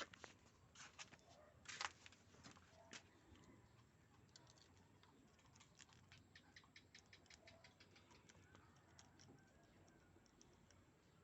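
Near silence with scattered faint clicks and crackles: a few louder clicks in the first three seconds, then a run of many small ticks through the middle. No saw is running.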